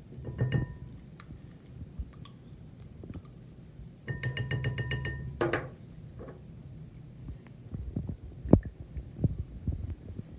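A spoon scraping and clinking against small glass baby-food jars as they are emptied into a mixing bowl: a ringing clink about half a second in, a longer squeaky scrape around the middle, and a sharp tap a couple of seconds later, among smaller handling clicks.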